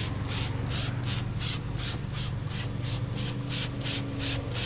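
Quick, even rubbing strokes of an applicator working tire shine onto a truck tire, about four strokes a second.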